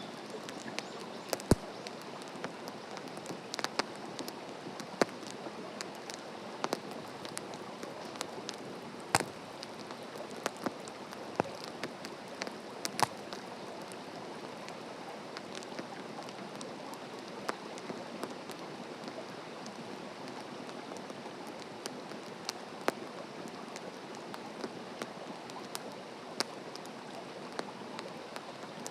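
Open wood fire burning on the ground: a steady hiss with irregular sharp crackles and pops, a few much louder than the rest.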